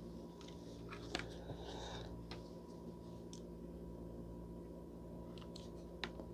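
Faint, scattered clicks and light rustles of hands handling a smartphone gimbal and its packaging, over a low, steady hum.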